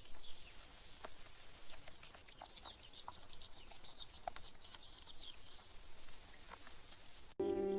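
Ambience of light rain hissing, with scattered small bird chirps and water drips throughout.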